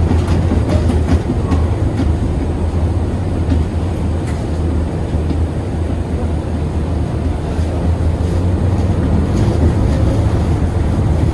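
KTM-8KM tram running along the track: a steady low rumble of the car and its wheels on the rails, with a few faint clicks.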